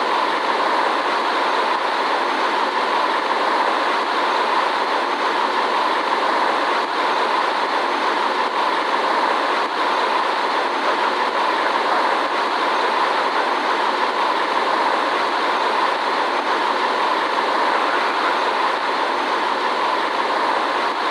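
Steady cabin noise inside a Boeing 787 airliner: an even rush of airflow and engine noise that holds constant throughout.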